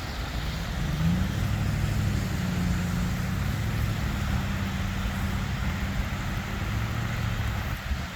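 Diesel locomotive engine running in a low, steady drone, its pitch bending briefly upward about a second in.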